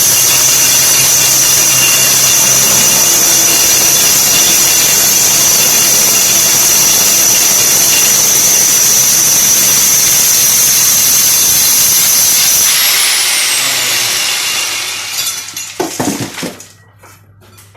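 Electric drill boring through a wall, a loud steady grinding with a high whine. About three-quarters of the way through the trigger is released and the motor winds down with a falling whine, followed by a few light knocks.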